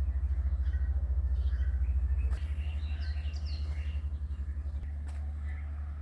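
A low, pulsing rumble that dips slightly twice, with a few faint bird chirps in the middle.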